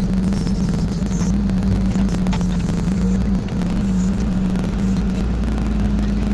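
Kubota KX161-3 mini excavator's diesel engine running steadily at a constant speed.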